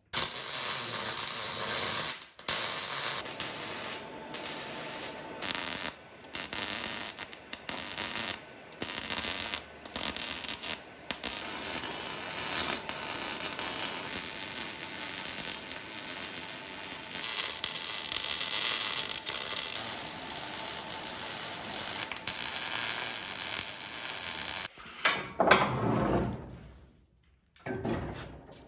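A handheld power tool running, switched on and off in short bursts for about the first ten seconds, then running steadily until it stops near the end. A couple of brief, lower knocking or scraping sounds follow.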